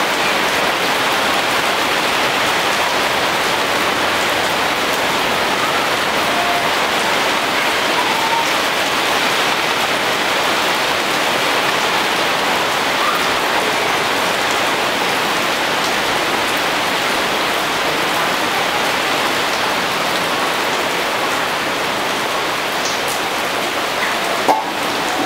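Steady rain falling on trees and roofs, an even hiss, with a single sharp tap near the end.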